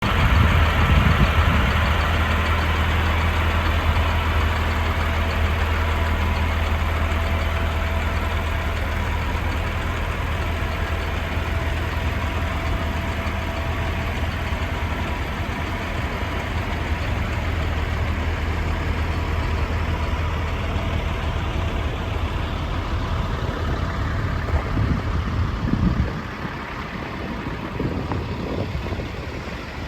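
Cat C-7 inline-six diesel engine of a Peterbilt 335 truck idling steadily, with a low drone that drops away near the end.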